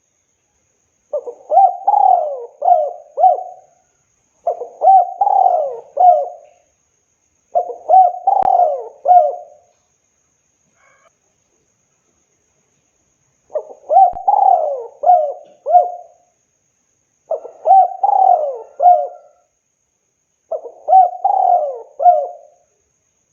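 Spotted dove cooing: six phrases of several coos each, repeated every few seconds, with a longer pause midway.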